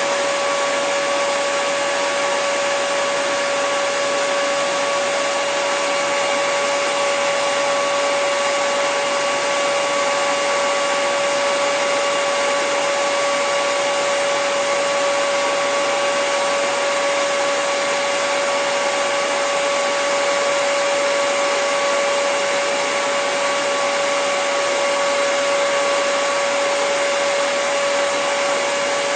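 Hair dryer running steadily, a constant rushing whoosh of blown air with a steady motor whine.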